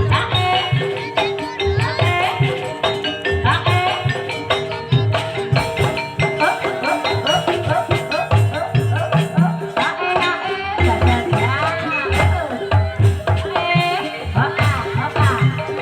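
Live Javanese gamelan music for an ebeg hobby-horse dance, played in the campursari tuning. Quick drum strokes keep a busy rhythm under ringing notes from struck tuned keys, and the playing runs without a break.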